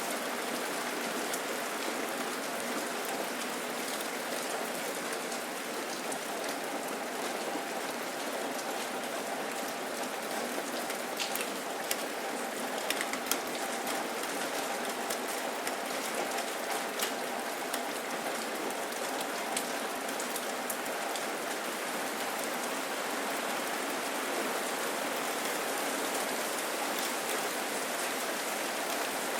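Steady rain falling: an even hiss with scattered sharp ticks of single drops, a few of them bunched together around the middle.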